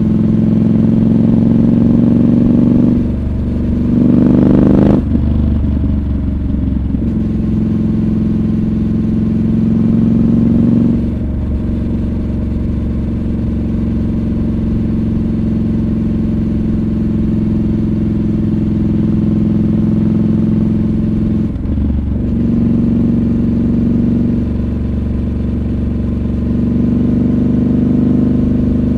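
Triumph Scrambler 1200 XC's 1200 cc parallel-twin engine running under way, mostly at a steady pitch. About three seconds in the engine revs up, louder and rising in pitch, then drops sharply at a gear change near five seconds. The engine note shifts briefly twice more, around eleven and twenty-two seconds in.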